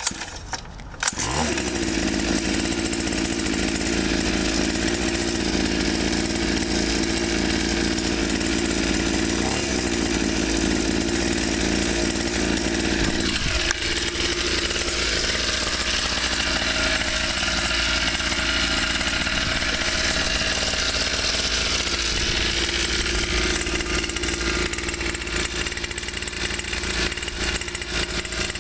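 Coolster 49cc two-stroke pit bike engine catching on a pull start about a second in, then running steadily with a high, buzzy two-stroke note, its pitch dropping briefly about halfway through.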